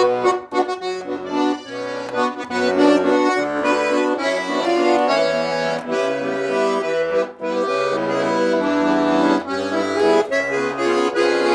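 Garmon, a Russian button accordion, playing an instrumental passage: a melody over rhythmic bass notes and chords, with no singing.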